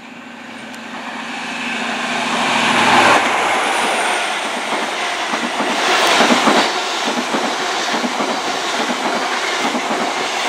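InterCity 125 high-speed train with its Class 43 diesel power car passing through a station at speed: the power car's engine comes in and peaks about three seconds in, then the coaches' wheels clatter over the rail joints.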